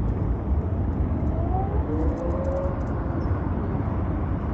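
City road traffic heard from a rider on an electric scooter: a steady rumble of engines, tyres and wind, with a faint whine that glides in pitch about a second and a half in.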